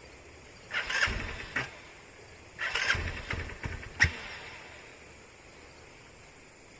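Motorcycle engine being cranked in two short attempts of about a second each without settling into a steady run, followed by a single sharp click.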